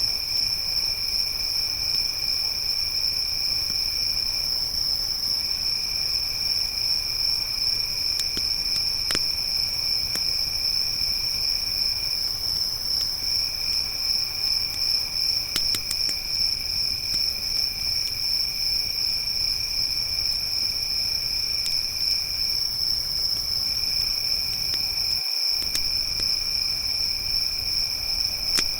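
A steady chorus of crickets trilling in two pitches: a loud high one and a lower one that pauses briefly now and then. A campfire crackles underneath with a few sharp pops.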